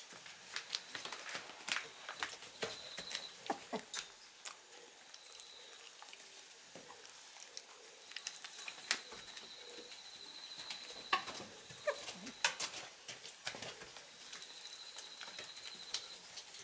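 Shiba Inu puppies moving about: light, irregular clicks and taps of small paws and claws, heaviest in two spells at the start and in the middle.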